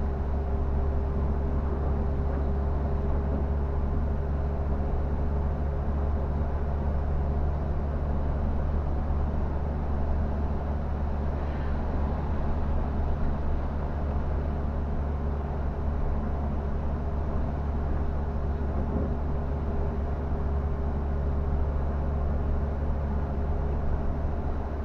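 Scania K360 bus's diesel engine running at a steady speed while driving, a constant low drone over even road noise.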